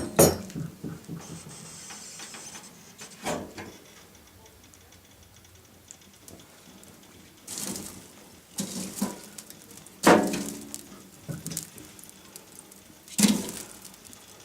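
Split firewood logs being loaded into a steel wood-burning stove's firebox, knocking and clattering against the metal. There are several separate knocks with short metallic ringing, the loudest about ten seconds in.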